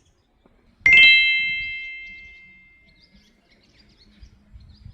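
A single bright bell-like ding about a second in, ringing on several high tones and fading away over about two seconds.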